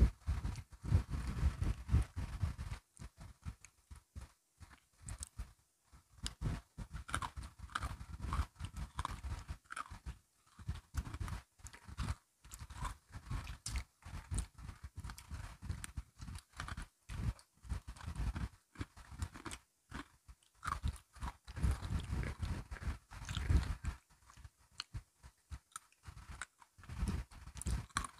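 A person chewing and crunching crisp biscuit sticks: an irregular run of sharp crunches and bites over duller chewing, with short pauses between mouthfuls.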